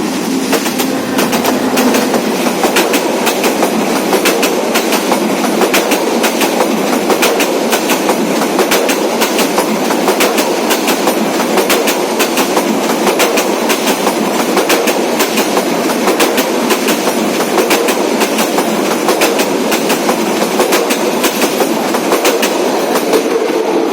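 Train passing close by at speed, its wheels clacking rapidly and evenly over the rail joints above a loud, steady rumble.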